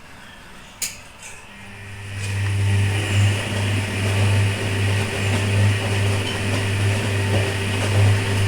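A washing machine motor starts with a click, then runs the wash agitation from the inverter's supply with a loud, slightly pulsing low hum and a swishing hiss.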